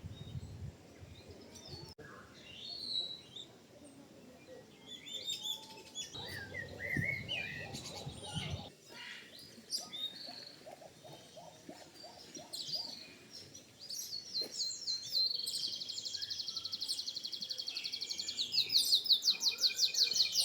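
Aviary birds chirping and whistling, with scattered short calls, then a fast, high repeated trill starting about two-thirds of the way through and getting louder toward the end.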